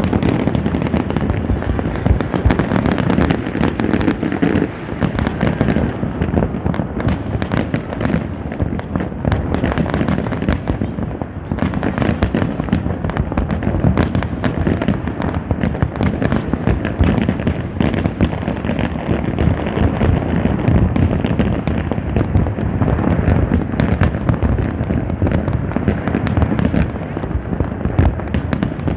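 Fireworks display: a dense, continuous barrage of bangs and crackling shells bursting, many overlapping every second with no break.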